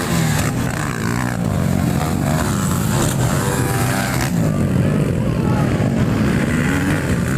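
Motocross bike engines revving on a grass track, overlapping, their pitch rising and falling as they accelerate and change gear.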